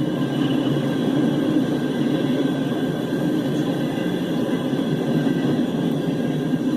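Freight train rolling past with a steady rumble of wheels on the rails.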